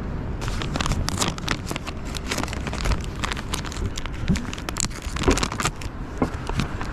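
Food wrapper crinkling in the hands: a quick, irregular run of crackles over a steady low background rumble.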